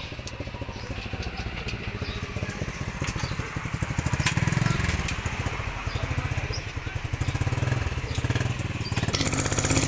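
Truck engine running with a fast, even firing beat that grows louder about four seconds in; a hiss joins near the end.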